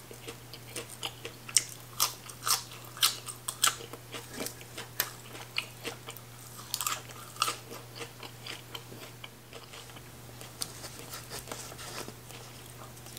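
A person biting and chewing crisp raw greens close to the microphone: sharp crunches come thickest in the first few seconds and again about seven seconds in, with softer chewing between and toward the end.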